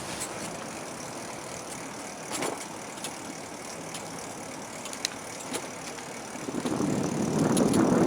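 Bicycle riding along a trail: a steady rolling hiss with a few small clicks. The noise grows louder about six and a half seconds in.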